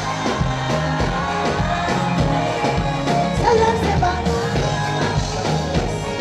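Live band music playing through a concert sound system, with a steady bass line and regular drum beats, and a vocal or lead line over it.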